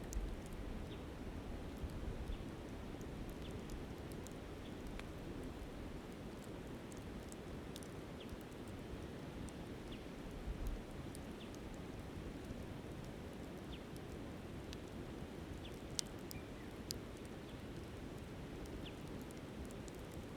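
Wood campfire crackling with scattered sharp pops over the steady rush of a flowing river. Low wind gusts buffet the microphone near the start and again about ten seconds in.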